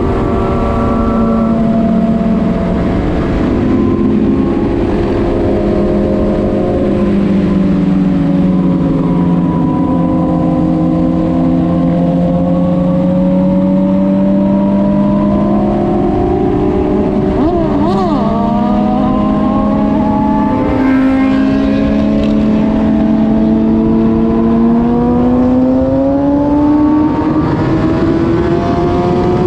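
Engine of a moving vehicle heard on board while cruising, its pitch easing down slowly and then climbing gradually as it speeds up again. A brief warbling tone sounds a little past the middle.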